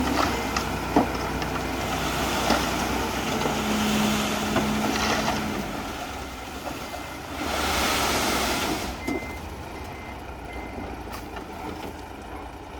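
Heavy construction machinery working at a distance: a truck-type engine running under a noisy background with scattered knocks, and a hissing swell about seven and a half seconds in.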